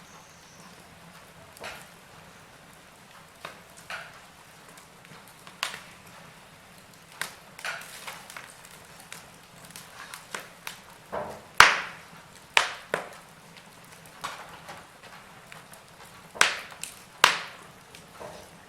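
Wood fire crackling, with irregular sharp pops and snaps over a soft steady hiss; the loudest pops come about two-thirds of the way in and again near the end.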